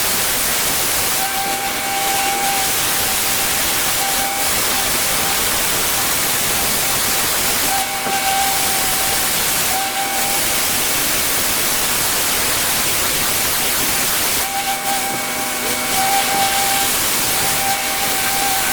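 Pressure washer spraying a high-pressure water jet: a loud, steady hiss with a thin whine that comes and goes several times. The sound cuts off suddenly at the end.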